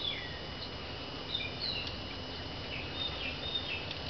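Small birds chirping in short, scattered calls, about nine in four seconds, over a steady thin high-pitched tone and low background hum.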